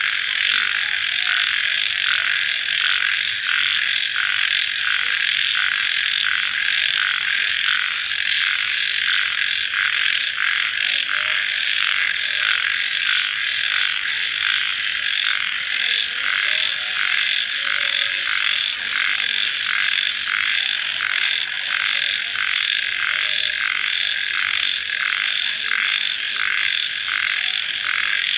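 Dense night chorus of calling animals after rain, which the uploader names as crickets: a steady high-pitched trilling with an even, regular pulse.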